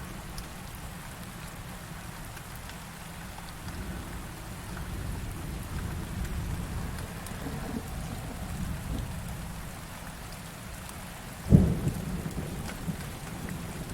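Heavy rain falling steadily with low thunder rumbling through it, then a sharp, loud thunderclap about three-quarters of the way through, followed by rumbling.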